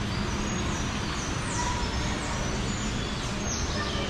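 Small birds chirping: a run of short, high chirps, each falling in pitch, several a second, over a steady background hiss.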